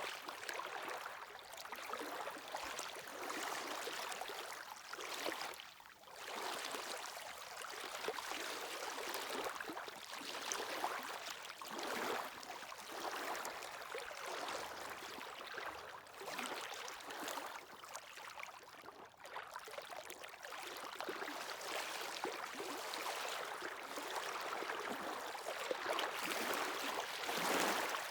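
Sea waves washing onto the shore: a continuous hiss of surf that swells and eases every few seconds, with a brief lull about six seconds in.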